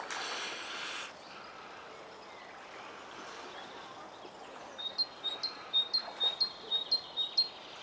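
A bird chirping in a quick regular series, about three sharp high chirps a second for a few seconds in the second half, over a quiet outdoor background, after a brief hiss of noise at the start.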